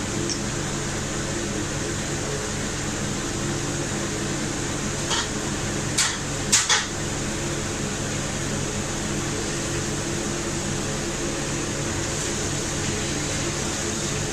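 A steady mechanical hum, like a running fan or appliance motor, with an even hiss over it. About a third of the way in come four short knocks, the last two close together.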